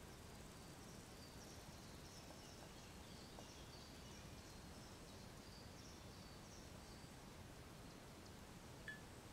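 Near silence: faint outdoor background hiss with a distant bird's high, twittering notes for several seconds, and a single faint click near the end.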